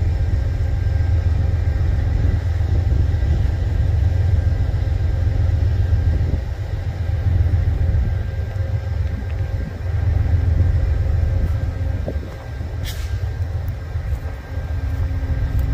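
Diesel freight train running with a steady low rumble and a faint engine hum, with a brief sharp click about thirteen seconds in.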